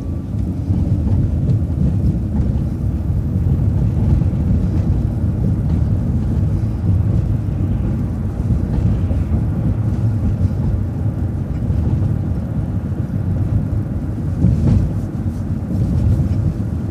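Steady low rumble of engine and road noise inside a moving vehicle as it drives along a city street.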